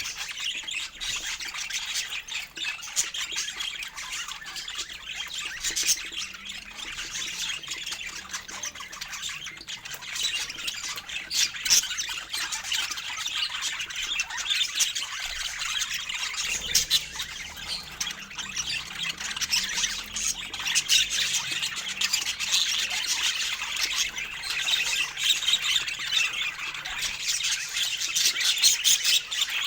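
A group of budgies chattering and squawking continuously, a dense mix of warbles, chirps and sharp calls.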